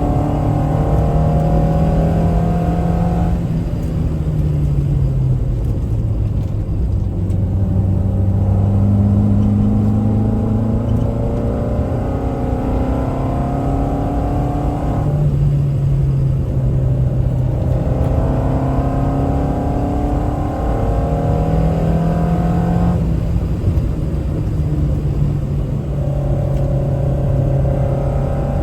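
Toyota Celica TA22's four-cylinder engine under way, its note climbing and sinking with speed. The throttle is lifted suddenly several times, as at gear changes.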